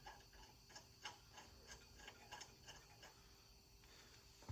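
Faint, irregular light clicks and ticks as a small metal fitting and adapter are handled and fitted on, over near silence.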